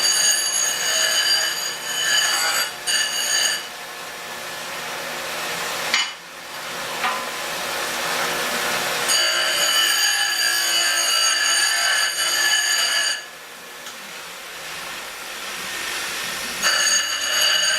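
A metal-cutting saw cutting through steel pipe. It gives a loud, high metallic screech in three stretches, near the start, in the middle and near the end, with quieter grinding between them and a sharp click about six seconds in.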